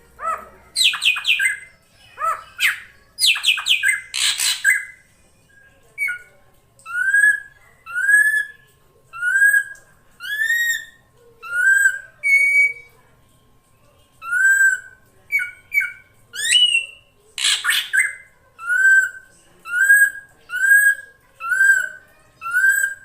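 Drongo calls of the kind used as a bird-lure recording. It opens with a run of harsh, rasping chatter, then gives a steady series of clear, upslurred whistled notes, about one a second. A second short burst of harsh chatter comes in the middle.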